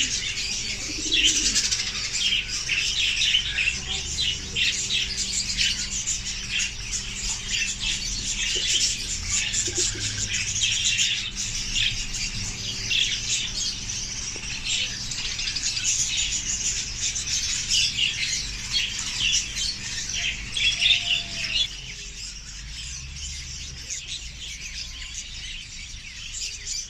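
Many small caged pet birds chirping and chattering at once, a dense high twittering over a steady low hum; the chatter thins out and gets quieter about 22 seconds in.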